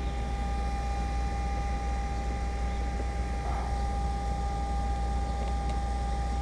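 Steady low hum and hiss with a constant faint whine, unchanging throughout.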